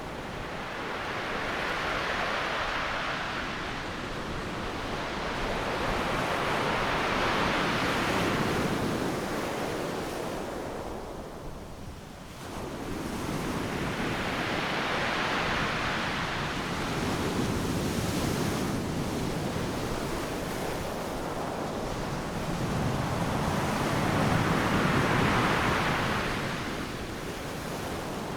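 Ocean waves breaking on a beach, the surf swelling and easing in about four slow surges, with a short lull about twelve seconds in.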